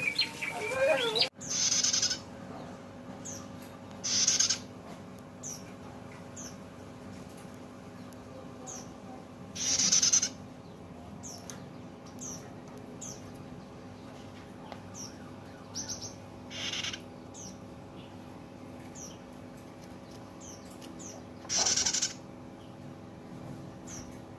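Pet prenjak (prinia) calling: a brief warbling whistled song at the very start, then, after a cut, short high chirps repeated about every half-second, broken five times by louder noisy bursts of under a second each. A steady low hum runs underneath.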